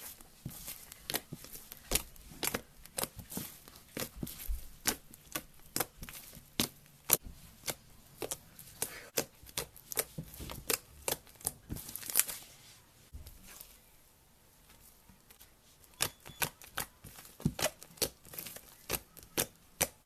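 Thick slime squeezed and kneaded by hand, giving many sharp, irregular clicks and pops as air pockets burst. The clicks ease off about two-thirds through, then come thick and fast again near the end.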